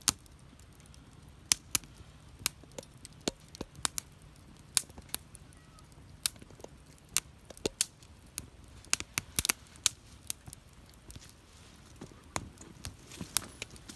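Wood fire crackling: burning wood gives off sharp, irregular pops and snaps over a low, steady rush.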